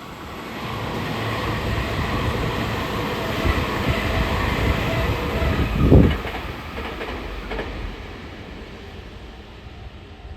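Tobu 500 series six-car electric train passing through the station without stopping: a steady running rumble builds up, a loud low thud comes about six seconds in, and the noise then fades as the train moves away.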